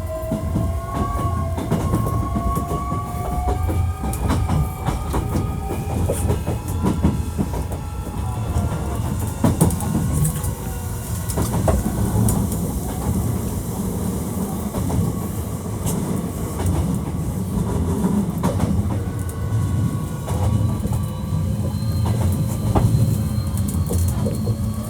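Hankyu 1300 series electric train running, heard from inside the passenger car. The whine of its Toyo IGBT inverter and traction motors rises in pitch as it accelerates and fades out after several seconds. A steady low rumble of wheels on rail continues throughout, with clicks over the rail joints. The car is one known for an odd running noise.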